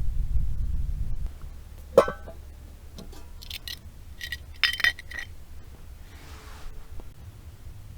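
Metal camp cookware clinking: a sharp ringing clink about two seconds in, then a quick run of lighter clinks and a scrape, after a low rumble that fades out in the first second.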